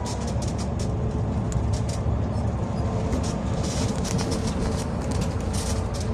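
Car on the move: a steady engine and road rumble with frequent light clicks or rattles over it.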